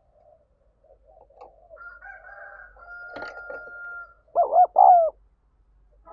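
Spotted dove cooing: soft low coos, then two loud coo notes falling in pitch about four seconds in. A steady higher tone runs through the middle.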